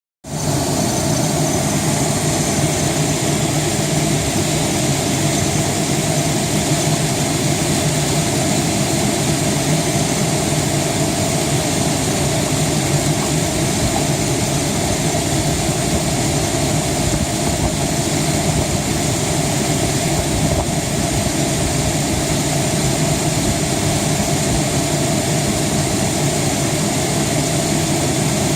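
1996 GMC Jimmy's 4.3-litre V6 idling steadily while the cooling system is burped of trapped air.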